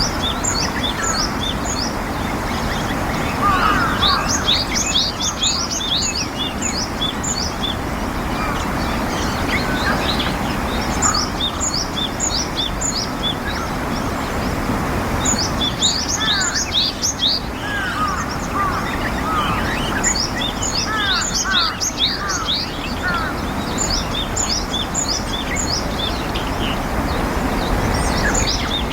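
Japanese tit calling, repeated flurries of quick, high chirping notes coming every few seconds, over a steady low background rumble.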